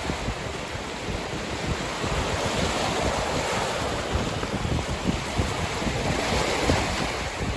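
Caspian Sea waves washing on the shore in a steady wash, with gusts of wind buffeting the microphone.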